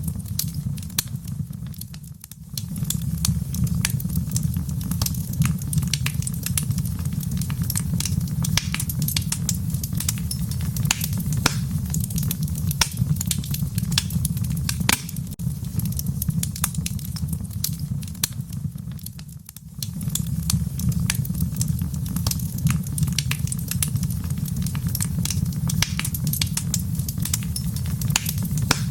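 Wood fire crackling and popping in a fireplace, with irregular sharp pops over a steady low rumble of flame. The sound dips briefly twice, once about two seconds in and again near twenty seconds.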